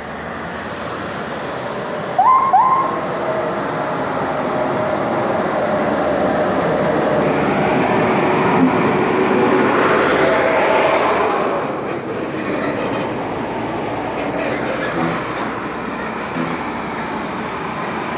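Heavy Scania truck hauling a load passing by, its engine and tyre noise growing to a peak in the middle and then easing off. Two short horn toots sound about two seconds in.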